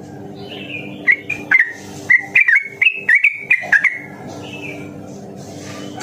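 Yellow-vented bulbul (trucukan) singing one quick bubbly phrase of about a dozen short chirping notes, starting about a second in and lasting nearly three seconds, over a steady low hum.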